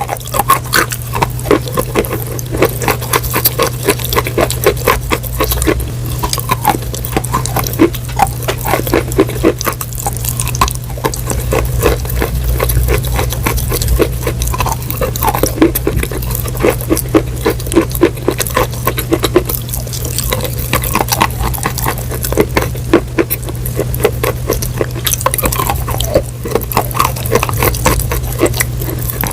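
Close-miked crunching and chewing of food: a dense, continuous run of small crackly crunches with wet sounds mixed in, over a steady low hum.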